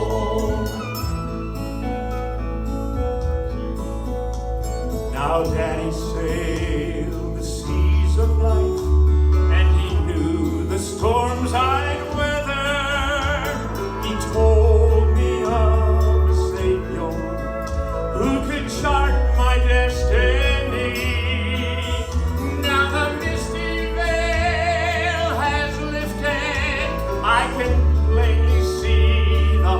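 Gospel quartet singing with vibrato over musical accompaniment with a pulsing bass line.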